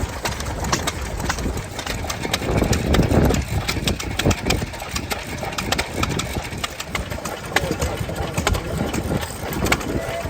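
Vintage stationary engines running, with a jumble of knocks and clicks over a low rumble.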